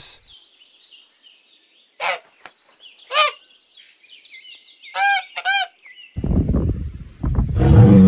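Domestic geese honking: four short calls spread through the first two-thirds, about 2, 3, 5 and 5.5 seconds in, with faint high chirps behind them. From about six seconds in a deep, low rumble starts and grows into a loud bovine grunt near the end.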